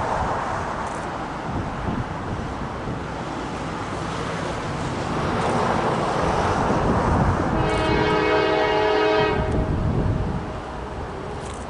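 Norfolk Southern diesel locomotives running light, with a broad engine and rail rumble that swells and then drops. About eight seconds in, the locomotive horn sounds one multi-note chord for about two seconds.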